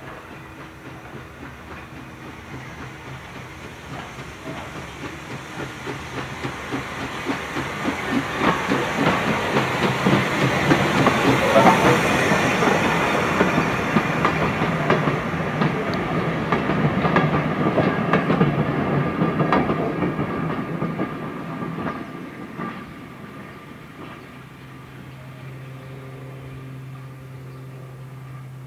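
Steam train of Victorian passenger coaches passing on the track, wheels clattering over the rail joints; it grows louder, is loudest about ten to twenty seconds in, then fades away. A low steady hum remains near the end.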